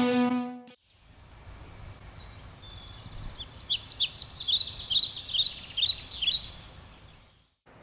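A distorted electric guitar note rings out and stops within the first second. Then, against a quiet outdoor background, birds chirp in a rapid run of short, high chirps from about three to six and a half seconds in.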